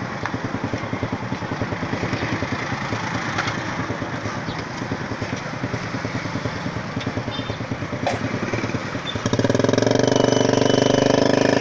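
Motorcycle engines of tricycles (motorcycle-sidecar taxis) running in street traffic. About nine seconds in, one pulls up close and its engine runs loud and steady.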